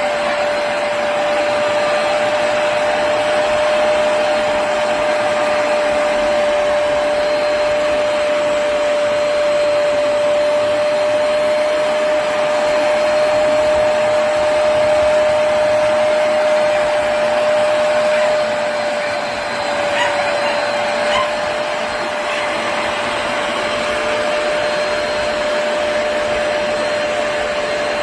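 Hoover PowerDash Pet+ compact carpet cleaner running steadily: a constant motor tone over the rush of its suction, with a brief dip in level and a couple of small clicks about twenty seconds in.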